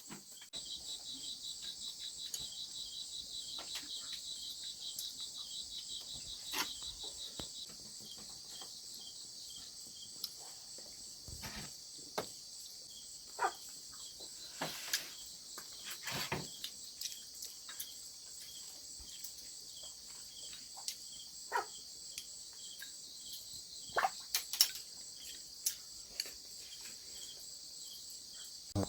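Crickets chirping steadily. A fast pulsing trill carries on for the first seven seconds or so, and short clicks and knocks are scattered throughout.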